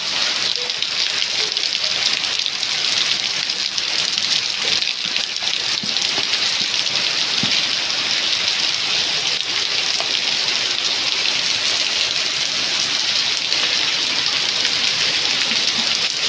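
Steady heavy rain hissing down and pattering on surfaces, with scattered drip ticks.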